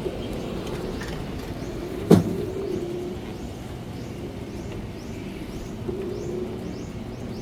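Golf cart driving, a steady low hum with a faint wavering whine. A single sharp thump comes about two seconds in. Birds chirp repeatedly in the second half.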